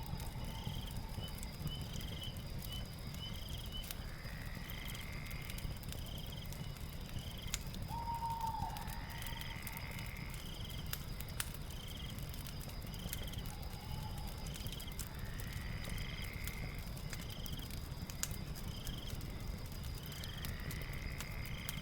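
Night ambience of a crackling fire with scattered pops, under a steady high insect drone and regular chirping, with a longer rising call every five or six seconds.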